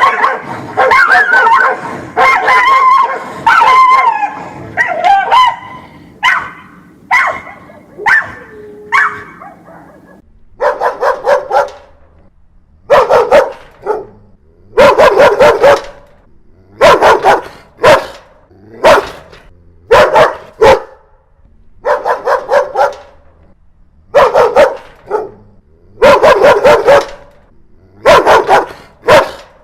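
A dog barking angrily. For about the first ten seconds the barks run together in a dense, unbroken string; after that they come in short separate bursts, each a few barks, about every second or two.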